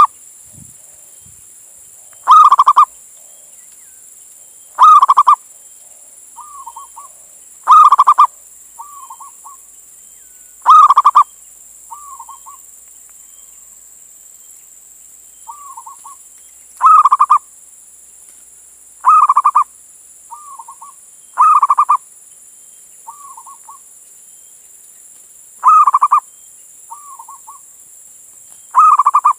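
Male zebra dove (perkutut) cooing its song: nine loud, half-second coos centred near 1 kHz, repeated every two to three seconds with a longer pause about halfway, and softer short notes between them. A steady faint hiss runs underneath.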